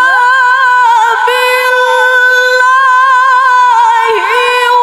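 Woman reciting the Quran in a melodic chant, holding one long high note with wavering ornaments on "wa kafā" and moving into "billāhi" near the end.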